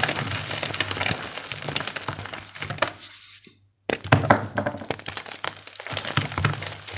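Blocks of gym chalk crumbling and cracking as they are crushed, a dense run of small crackles and snaps. It fades out a little after three seconds in, drops to silence briefly, then starts again.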